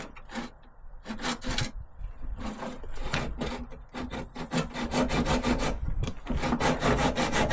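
Hacksaw cutting through a seized steel bolt wedged between body panels, in repeated back-and-forth strokes that quicken and grow louder toward the end. The bolt is being cut off because its captive nut has sheared and it can't be undone.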